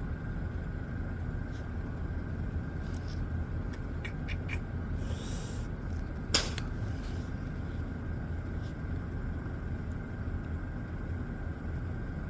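Steady low vehicle rumble, as heard from inside a truck cab, with a few faint ticks and one sharp click about six seconds in.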